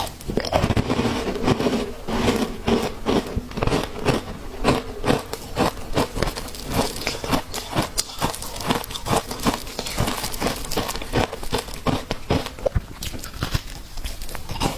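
Ice being bitten and chewed: a steady run of crisp crunches, about three a second.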